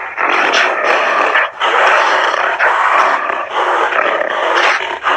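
An animal's loud, noisy vocal sounds in long stretches with short breaks, one of them about a second and a half in.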